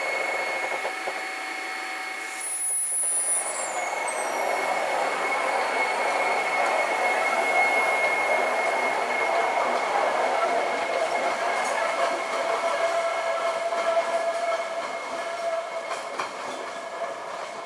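Hakone Tozan Railway electric train running on the rails, with steady wheel squeal from the wheels grinding on curving track.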